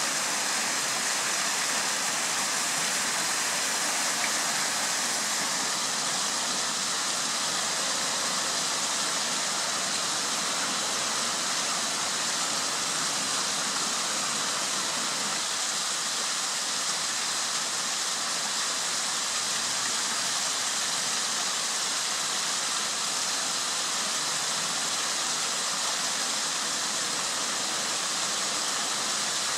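Water of a stream rushing steadily, an even hiss with no breaks.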